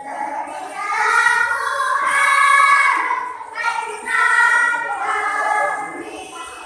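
A school choir of young voices singing a song together, holding long notes, swelling loudest a couple of seconds in.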